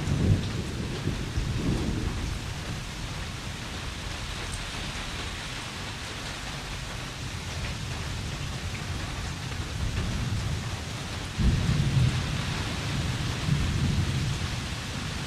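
Steady heavy rain with rolling thunder: a low rumble dies away over the first two seconds, and a new one breaks in suddenly about 11 seconds in and rumbles on.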